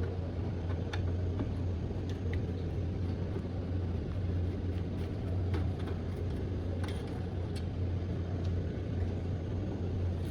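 A steady low hum with a few faint clicks and taps scattered through it.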